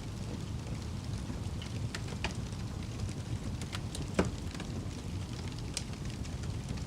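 Wood fire crackling in a fireplace: irregular sharp pops over a steady low rumble of the flames, the loudest pop a little past halfway.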